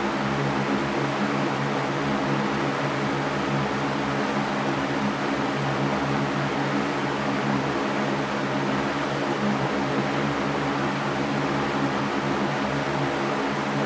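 Electric fan running steadily: an even rush of moving air with a low, constant motor hum underneath.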